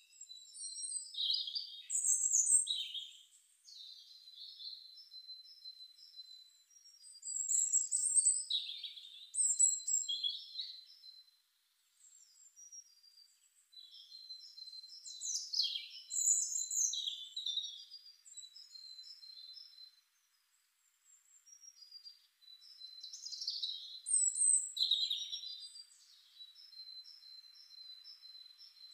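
A songbird singing high, clear phrases about every seven to eight seconds, with short gaps of quiet between them. Each phrase opens with quick falling notes and ends in a run of short repeated notes.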